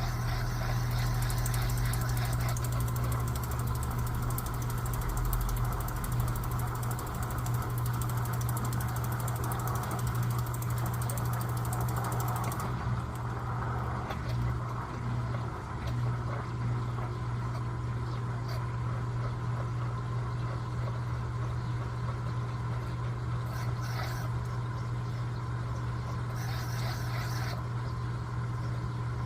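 Electrolux LTA15 washing machine running mid-cycle: a steady low motor hum with a noisy wash of sound over it, the higher hiss dropping away about 13 seconds in.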